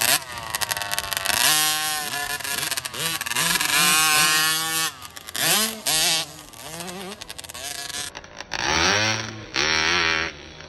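Small 50cc two-stroke motocross bikes revving hard as they ride past, several high buzzing engines rising and falling in pitch and overlapping.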